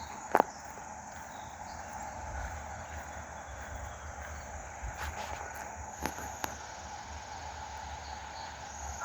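Insects chirring steadily over the low rumble of a car driving slowly, with a few sharp clicks.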